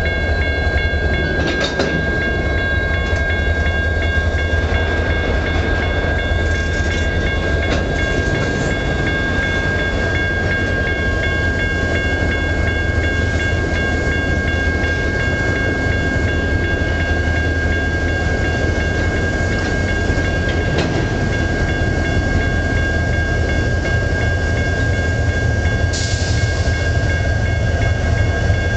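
Freight train's empty flatcars rolling past: a steady rumble of steel wheels on rail with a continuous high whine above it. A few sharp clanks break in, one near the end.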